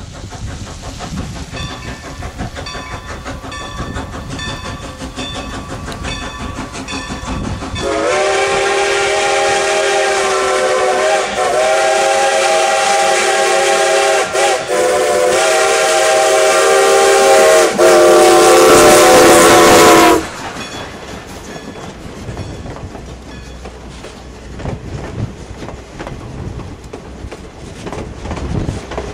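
Steam whistle of Strasburg Rail Road No. 90, a 2-10-0 Decapod steam locomotive, sounding a loud chord in several long blasts for about twelve seconds, starting about a third of the way in. Before and after it, the train runs past with wheels clicking over the rail joints.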